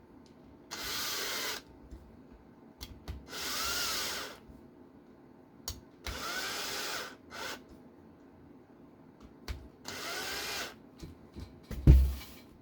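Small electric screwdriver driving screws in four short runs of about a second each, its motor pitch rising and falling each time. A single knock near the end.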